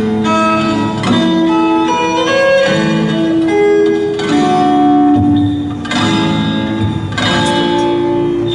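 Keyboard playing an instrumental passage of slow chords with a melody line on top. Each chord is held and changes about once a second.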